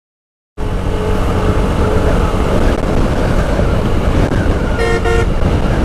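Strong storm wind buffeting the microphone, mixed with the road noise of a motorcycle ride, loud and steady after a brief dead silence at the start. About five seconds in, a vehicle horn sounds once for about half a second.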